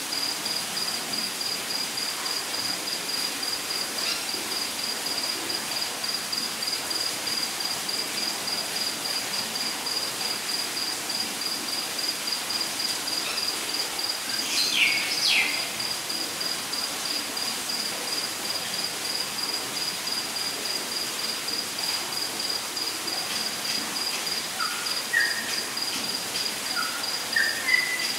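Steady light-rain hiss with a cricket chirping in an even, rapid pulse. A bird gives two quick falling calls about halfway through, then a few short rising chirps near the end.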